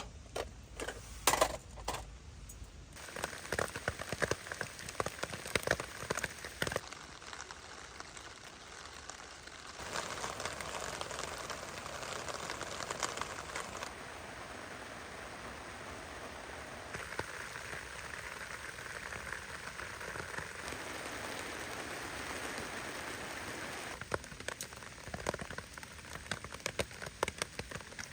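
Heavy rain falling as a steady hiss, with louder, sharper drops striking close by in the first few seconds and again near the end.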